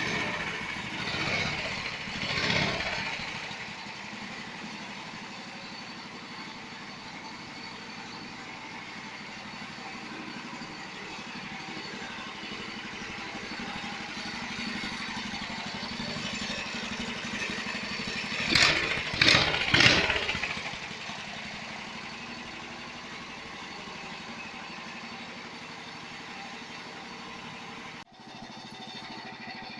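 Small engine of a homemade 4x4 mini tractor running steadily, with a few short, louder bursts in the first few seconds and again about two-thirds of the way through; the sound breaks off abruptly near the end and picks up again.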